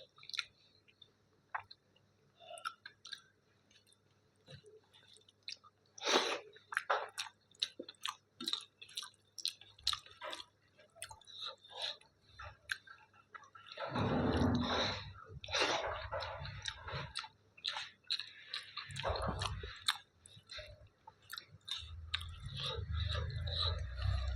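A person chewing mouthfuls of dal and rice close to the microphone, with many small wet mouth clicks and smacks. The chewing gets denser and louder a little past the middle and again near the end.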